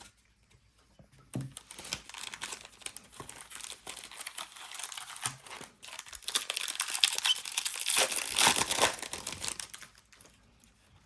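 Wrapper of a Donruss football card pack being torn open and crinkled by hand. The crackling builds, is loudest about eight to nine seconds in, then stops near the end.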